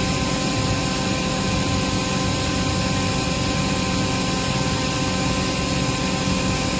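Atlas Copco GA22 VSD FF oil-injected rotary screw air compressor running steadily: an even rush of noise with several steady whining tones over it.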